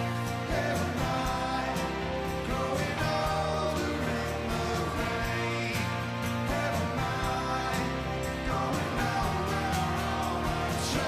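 Live rock band playing a song with a singer, steady drum beat and guitars.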